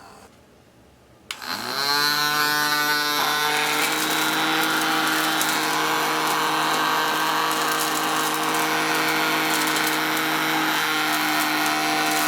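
A click, then the small battery-powered DC motor of a homemade bottle vacuum cleaner spins up, its pitch rising quickly, and runs with a steady whine.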